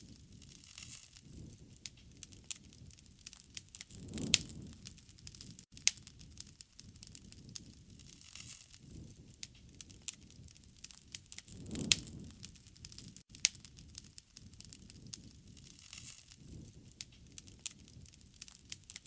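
Wood fire crackling with frequent sharp pops, over a low rushing sound that swells and fades about every four seconds.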